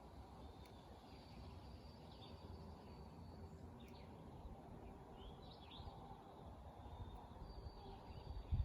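Faint wild birds chirping: scattered short calls that slide in pitch, with a couple of long thin high notes, over a steady low background rumble.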